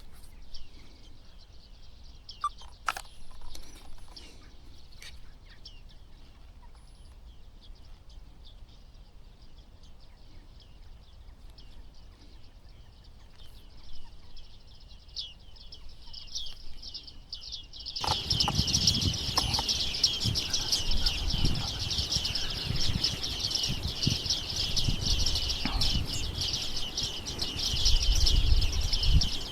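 Bearded reedlings calling with rapid, high-pitched chirps. The calls are faint at first and become suddenly much louder about two-thirds of the way in, when a low rumble joins them.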